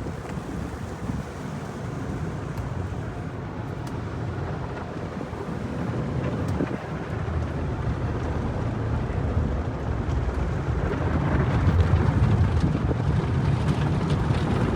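Automatic car wash tunnel spraying and applying foam and soapy water onto a car, a steady rushing noise that grows louder in the second half.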